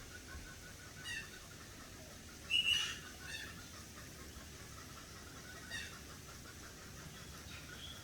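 Serama bantam chickens giving short, high-pitched clucks and calls, the loudest about two and a half seconds in, over a steady, rapid ticking.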